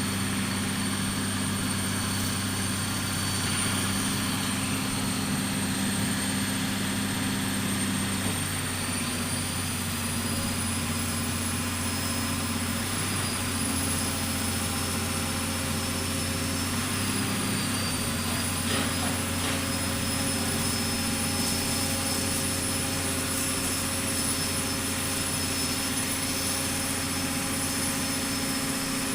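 Pile-driving machine running steadily: a continuous engine hum with a faint high whine that shifts a little in pitch, with no hammer blows.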